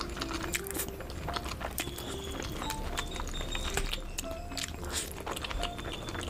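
Close-miked eating of saucy noodles: wet chewing, smacking and quick mouth clicks, over light background music.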